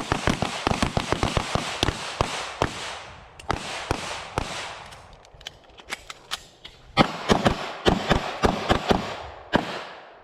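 Handguns fired rapidly by a line of shooters at once during a bill drill: a dense volley of overlapping shots for the first few seconds, scattered single shots, then a second volley about seven seconds in.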